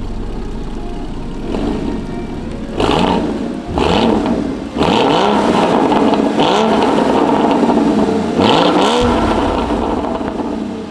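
Porsche 981 Cayman GT4's 3.8-litre flat-six with sports exhaust, running steadily at first, then revving up in a series of quick rising pulls broken by gear changes. It fades near the end.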